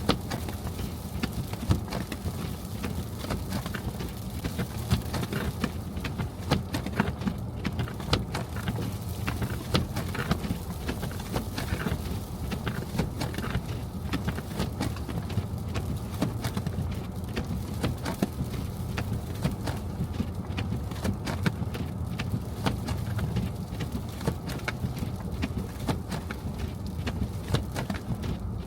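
Car driving through snow, a steady low rumble of road and engine noise with frequent irregular clicks and taps over it.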